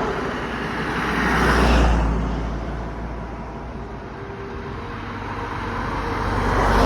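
Lorries in a road convoy driving past one after another, with engine rumble and tyre noise. The sound swells as one passes about two seconds in, eases off, then swells again as the next passes near the end.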